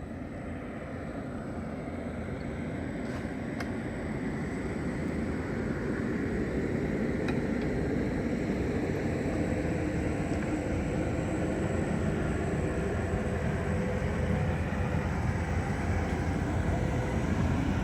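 A passenger train running, its steady noise growing gradually louder.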